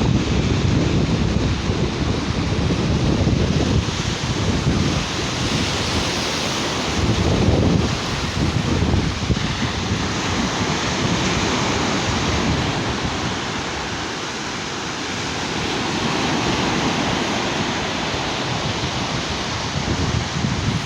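Sea waves washing onto a beach, with wind buffeting the microphone in gusty low rumbles.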